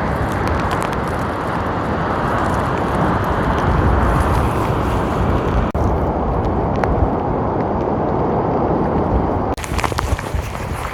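Strong wind blowing across the microphone, a loud steady rush. Near the end it cuts to a lighter sound full of quick small ticks and crackles.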